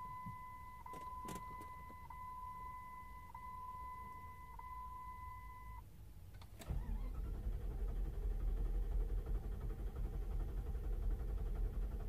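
A steady dashboard warning beep sounds for about six seconds and stops. A click of the key follows, then the starter cranks the Jeep Grand Cherokee WJ's 4.7 V8 at length on a hot start. The long crank is the hard hot start that a new coolant temperature sensor has only slightly improved.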